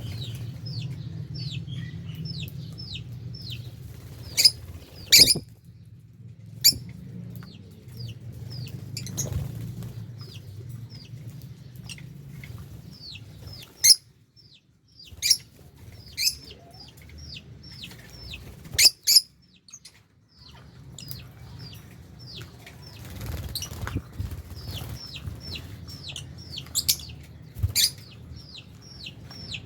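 A flock of lovebirds chirping: a steady run of short, high, falling chirps, two or three a second. Several much louder, shrill screeches cut through it.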